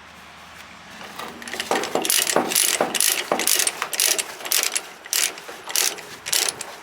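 Ratchet chain binder being cranked to tighten a tie-down chain, its pawl clicking in a steady run of about three clicks a second that starts about a second and a half in.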